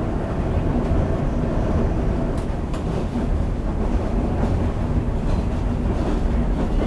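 Perley Thomas streetcar running on its rails: a steady low rumble of motors and wheels, with a couple of faint clicks.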